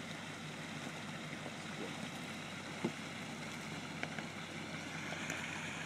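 Land Rover Discovery engine running at low speed as the truck creeps forward, over the steady rush of water from a small rocky cascade. A faint knock comes about halfway through.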